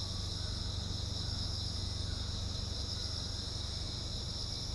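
A steady, unbroken chorus of insects shrilling in a high pitch, with a low steady hum underneath.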